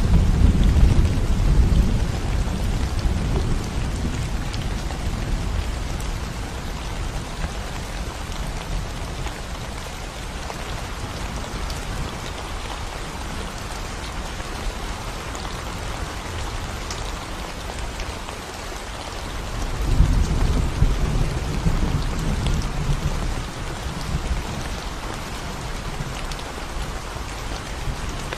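Steady rain falling on a concrete road. Low rumbles of thunder ride under it: one fading away over the first few seconds, and another that starts suddenly about twenty seconds in and dies down over a few seconds.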